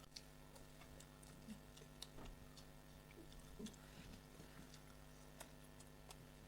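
Faint eating sounds: scattered soft clicks and small mouth noises of someone chewing, over a low steady hum.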